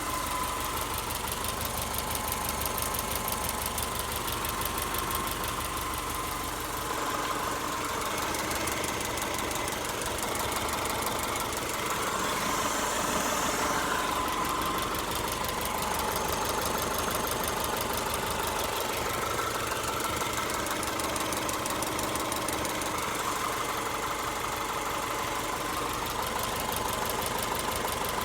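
Subaru EJ201 2.0-litre naturally aspirated flat-four engine idling, with a fast, steady ticking/pinging. The owner doubts it comes from the timing belt tensioner, though a faulty tensioner is common on these engines.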